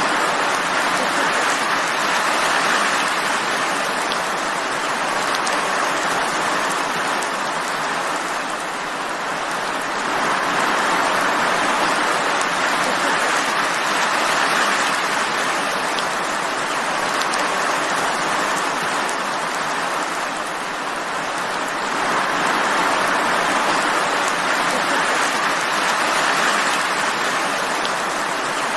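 Steady heavy rain falling: an even hiss that eases slightly a couple of times and comes back up.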